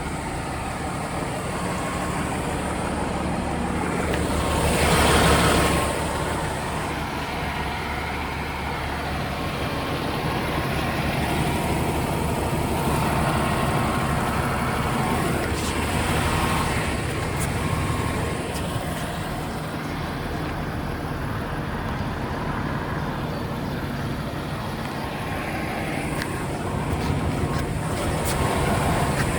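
Diesel truck engine idling steadily, the DAF XF 480's PACCAR MX-13 six-cylinder, with a swell of rushing noise about five seconds in.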